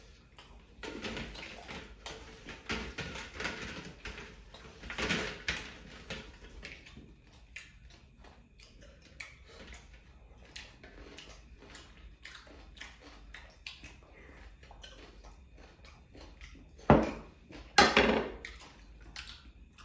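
Close-up eating sounds: two people chewing their last mouthfuls and sipping water, with many small mouth clicks and smacks. Two louder sharp knocks come near the end.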